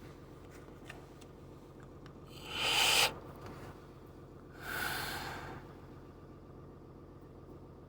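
Two loud breaths close to the microphone, a short one about two and a half seconds in and a longer one near five seconds, over the low steady idle of a Cummins 6.7 inline-six diesel running at about 900 RPM.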